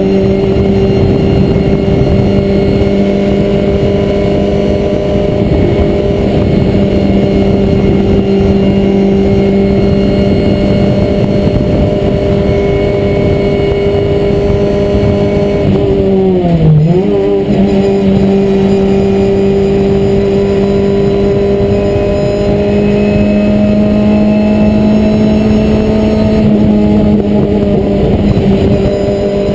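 Renault Clio Cup race car's four-cylinder engine heard from inside the cockpit, running hard at a steady pitch. About halfway through the pitch dips sharply for a moment and climbs back. Near the end it rises slowly.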